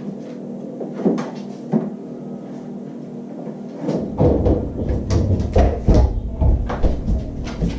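Refrigerator door being opened by a dog and a water bottle pulled out: two sharp clicks, then from about four seconds in a run of knocks and rattles.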